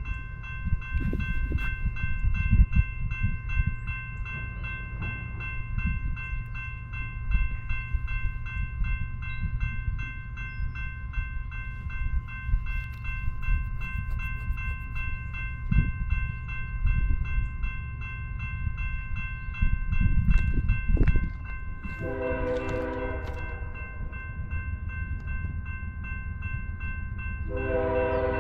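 Grade-crossing warning bell ringing steadily and rapidly over a low rumble. The approaching BNSF intermodal train's locomotive horn sounds twice near the end, a longer blast and then a second that starts just before the end.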